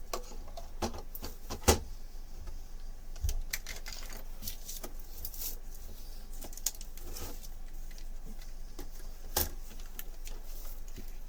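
Scattered clicks and light knocks of small plastic parts being handled and set down, with a sharper click just under two seconds in, a duller thump a little later, and another sharp click near the end, over a low steady hum.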